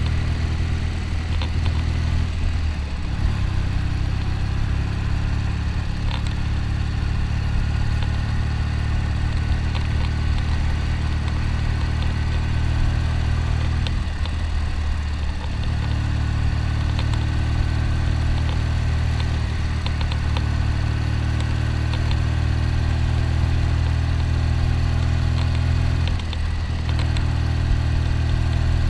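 1972 Triumph Tiger's parallel-twin engine running steadily under way. Its note dips and climbs back three times, as the throttle is rolled off and reopened.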